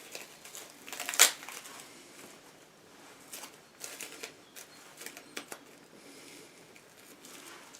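Hands handling masking tape and a fishing rod tip: a short, loud rasp about a second in, then scattered light clicks and rustles.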